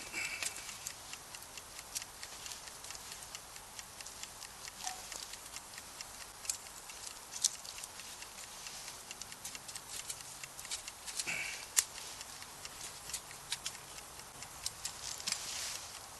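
Wood campfire crackling: irregular sharp pops and snaps over a steady low hiss, with one louder snap about twelve seconds in.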